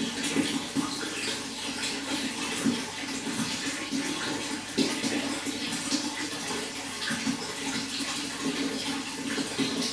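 Running water flowing steadily, with many small irregular splashes.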